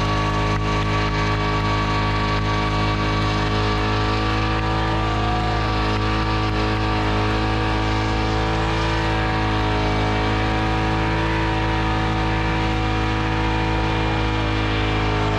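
An engine running steadily at a constant speed: a continuous hum with no revving, which cuts off suddenly at the end.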